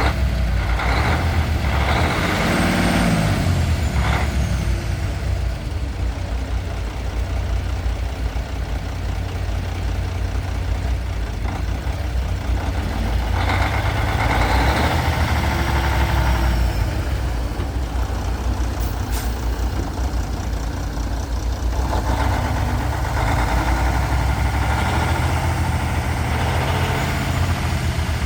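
2009 Sterling day cab truck's 350 hp Mercedes-Benz diesel engine running steadily. It grows louder in three stretches, and after the first it falls back in pitch.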